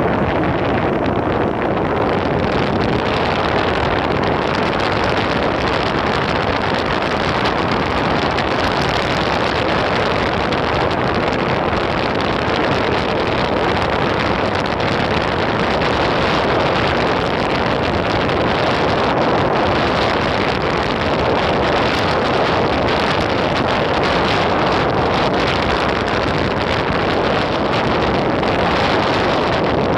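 Steady wind rushing over a phone microphone while riding an Enertion Raptor 2 electric skateboard, mixed with the rolling noise of the board.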